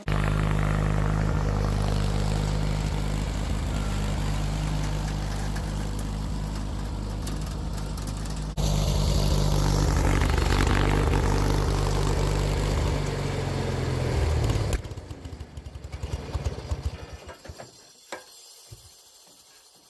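John Deere 317 garden tractor engine running hard under load with the tiller, then bogging down about thirteen seconds in and stopping abruptly about two seconds later. It stopped hard while very hot with the tiller down, as the owner believes. Faint scattered noises follow as it falls quiet.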